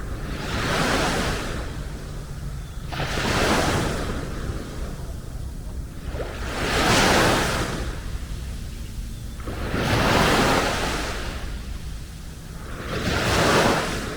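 Small sea waves breaking and washing up the beach, five surges about three seconds apart, each swelling and fading, over a steady low rumble.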